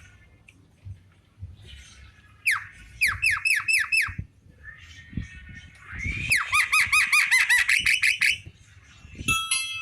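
Javan myna calling: a short run of rapidly repeated notes about two and a half seconds in, then a longer, faster run of repeated notes about six seconds in, with a brief burst near the end.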